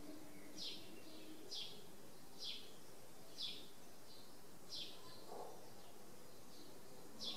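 A small bird chirping faintly and repeatedly: short, high, falling chirps about once a second over a quiet background hiss.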